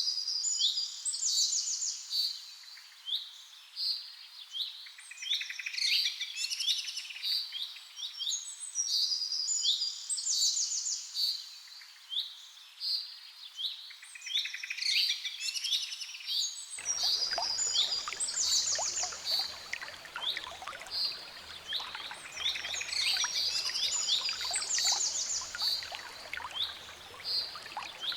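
Songbirds singing, with short phrases and quick trills repeating one after another. Past the middle, a low background hum of outdoor noise comes in suddenly beneath the song.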